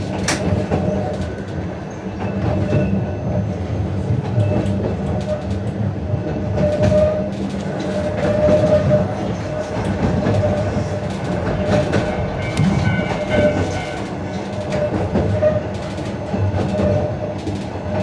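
Narrow-gauge electric train running: a steady low motor hum with a faint whine that swells now and then, and irregular clicks of the wheels over the rail joints.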